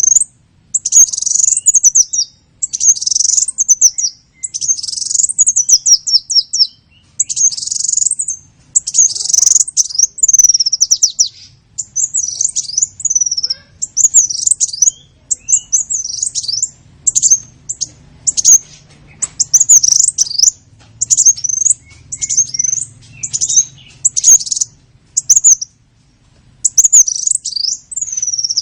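Small-bird lure call (suara pikat) used to attract small birds: loud, high-pitched chirps and quick trills in short phrases, repeating about once a second with brief pauses between them.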